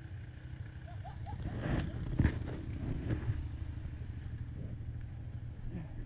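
Quad engine running steadily at low revs, with a brief cluster of knocks and clatter about two seconds in, the loudest just after two seconds.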